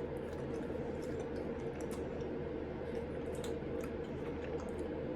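Faint small ticks and squishy clicks of someone chewing a hard gummy candy, over a steady low hum.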